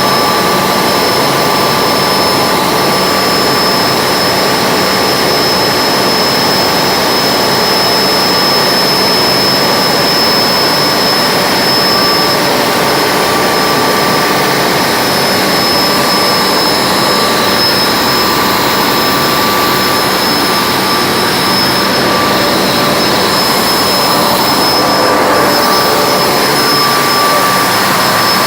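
Ship's marine engines running steadily under way, heard loud from inside the engine room, with a constant high whine over the noise.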